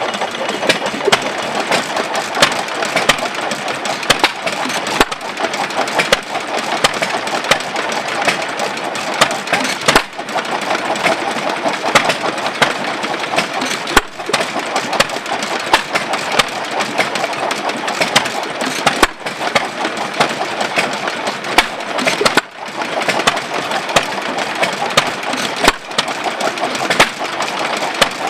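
Amanco 'Hired Man' 2¼ hp single-cylinder hit-and-miss gas engine from 1914–15 running: a steady clatter full of sharp beats, with a few brief dips in loudness.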